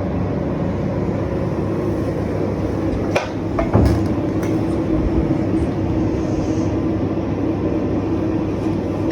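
Steady machinery drone of a ship's engine room, with a constant hum, and a couple of short knocks about three to four seconds in.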